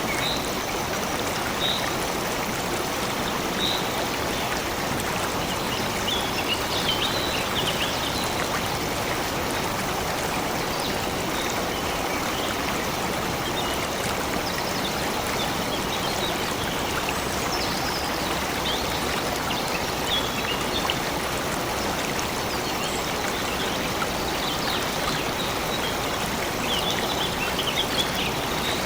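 Stream of water flowing steadily, with short high bird chirps now and then above the running water.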